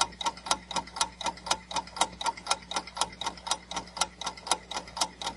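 Ticking-clock sound effect of a quiz countdown timer: even, sharp ticks at about four a second.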